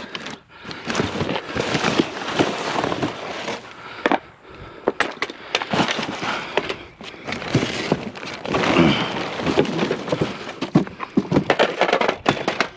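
Junk being handled and moved by hand: irregular clattering, knocking and rustling of loose items, with a run of sharp knocks.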